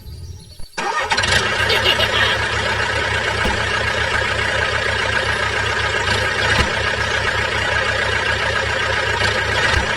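A small engine comes in abruptly about a second in and then runs steadily at an even speed.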